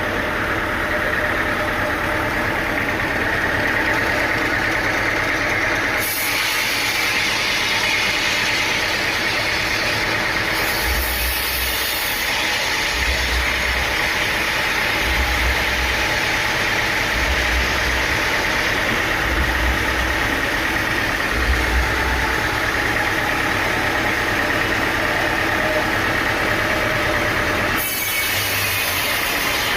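Sawmill machinery running steadily on engine power. A deep low pulse repeats about every two seconds in the middle stretch, and the sound shifts abruptly about six seconds in and again near the end.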